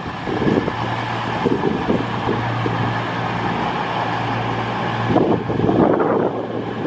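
Diesel train's engine running at the platform with a steady low hum, with wind buffeting the microphone and a louder gust about five seconds in.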